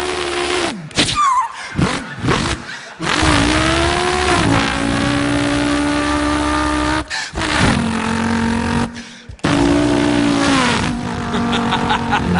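A man imitating a revving car engine with his voice. The pitch climbs and holds through a run of gear changes, with short breaks between them, and falls away near the end.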